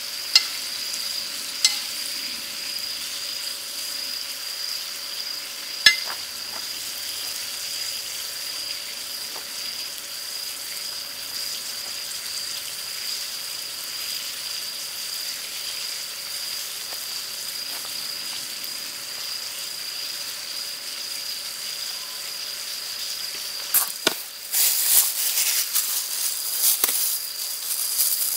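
Spicy webfoot octopus stir-fry sizzling steadily on a round griddle pan, with a few sharp clicks of metal tongs against the pan in the first six seconds. About twenty-four seconds in, the sizzling turns louder and crackling.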